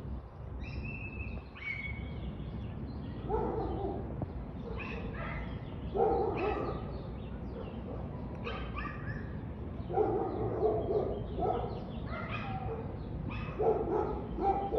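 A dog barking repeatedly in short separate barks, with higher-pitched calls in between, over a steady low rumble.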